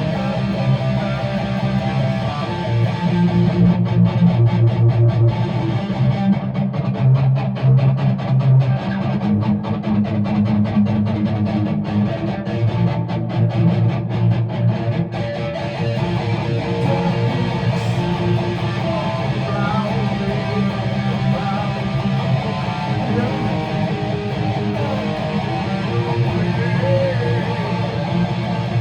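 Guitar strumming chords in a steady run, with no singing heard.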